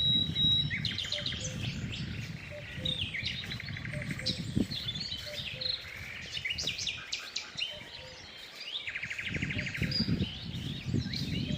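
Several songbirds singing and chirping together, with two fast trills of rapidly repeated notes, one about three seconds in and one near the end. A low rumble runs underneath, strongest at the start and near the end.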